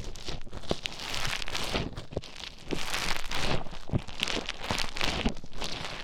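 Play foam being stirred and squished inside an ear with an ear pick, close to the microphone: dense, irregular crackling and squelching with many small clicks, swelling louder and softer from moment to moment.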